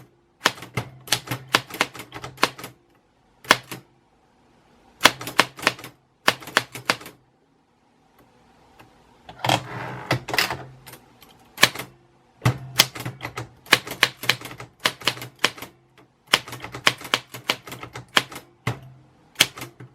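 Typewriter keys striking in quick runs of clicks, broken by short pauses, with a longer, noisier stretch about halfway through.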